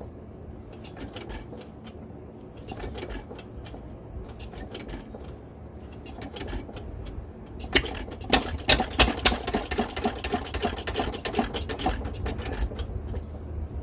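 Galloway Handy Andy gas engine being started on starting fluid: scattered clicks at first, then a quick run of loud, rapid firing beats about eight seconds in that lasts some five seconds and dies away. It runs only on the starting fluid because it is not picking up gasoline from the mixer.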